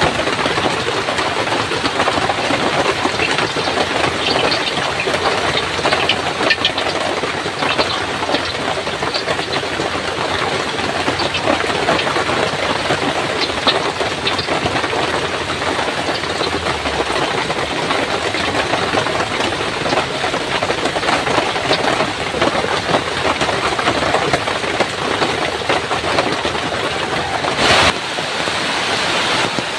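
Heavy rain falling in a steady, dense downpour, with one short louder noise near the end.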